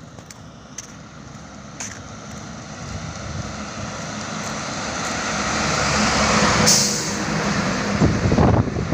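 Heavy truck on a highway, its engine and tyre noise swelling as it comes closer and peaking about two-thirds of the way through, with a short sharp hiss at the peak. Uneven low buffeting follows near the end.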